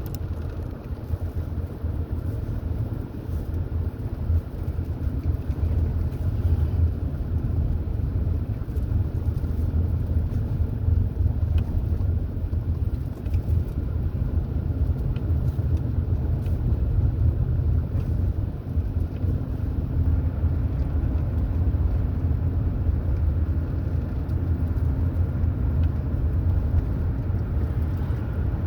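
Car under way: a steady low rumble of engine and road noise, unbroken throughout.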